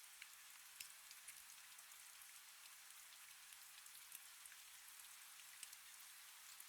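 Faint, steady rain: an even hiss with scattered drops ticking.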